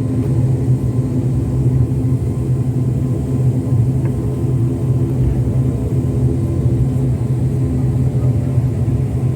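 Airliner engines heard inside the passenger cabin, a steady low drone with a hum around it.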